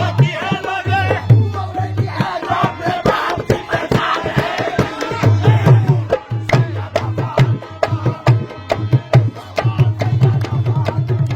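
Qawwali music: voices singing over quick hand-drum (dholak) strokes. About five seconds in the singing falls away and the drumming carries on alone.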